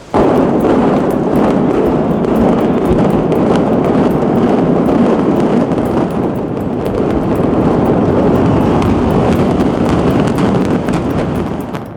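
A building collapsing in a demolition: a sudden loud start, then a long, steady rumble of falling debris with many sharp cracks through it, easing off near the end.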